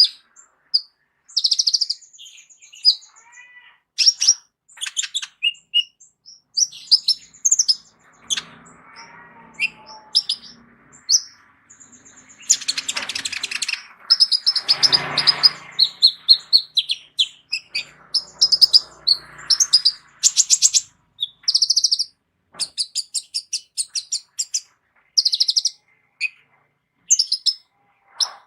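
Sunbird (kolibri ninja) singing a varied song of short high chirps and rapid trills, broken by brief pauses. Its song is packed with copied phrases of other songbirds. About 12 to 16 seconds in, a louder, rougher stretch reaches lower in pitch.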